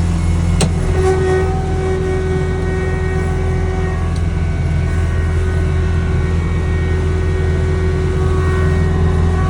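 Snowblower engine running steadily under load, with a sharp click about half a second in.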